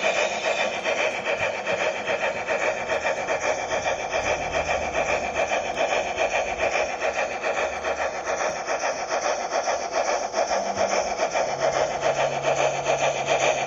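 H0-scale Märklin class 06 model steam locomotive running, its sound decoder and wheels on the track giving a fast, even rasping rhythm of steam chuffs that does not let up. A faint low hum joins near the end.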